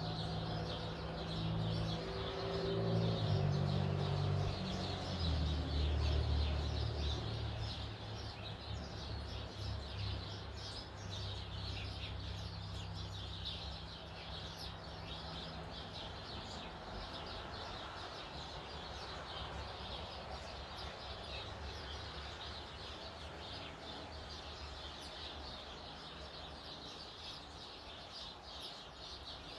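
Many small birds chirping throughout, over a low, steady, engine-like hum. The hum is loudest in the first several seconds and fades out about halfway through.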